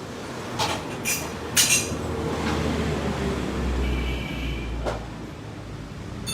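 A few sharp metallic clinks, metal objects knocking together, over a steady low rumble.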